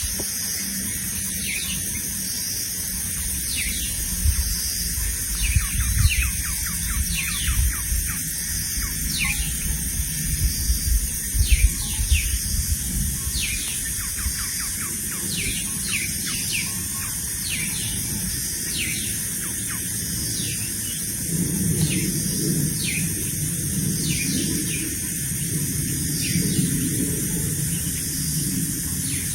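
Small birds giving many short, quick call notes that fall in pitch, scattered irregularly, over a low rumble that swells in the first half and again near the end.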